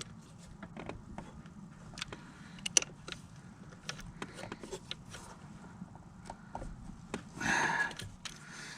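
Hand tools working bolts on a snowmobile engine: scattered light metallic clicks and taps as bolts are tightened in a cross pattern, with a louder scraping rustle about seven and a half seconds in.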